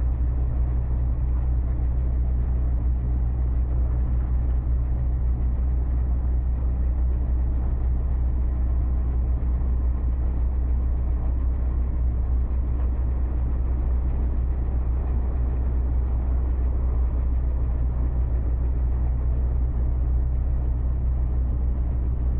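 A motor engine running steadily at an even, low pitch, with no change in speed.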